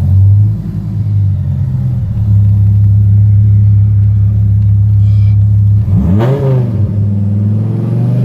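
Hennessey-modified 2002 Dodge Viper's V10 engine running under way, heard from inside the cabin. It holds a steady low note, then about six seconds in the pitch rises quickly and drops again.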